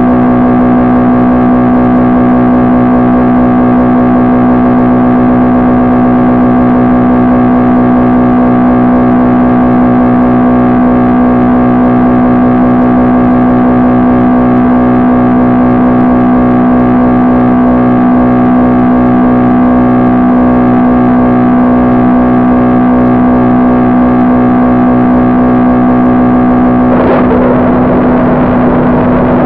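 The motor of an FPV model plane running at a steady pitch, a loud even whine with a low hum under it; near the end it turns rougher and the pitch begins to waver.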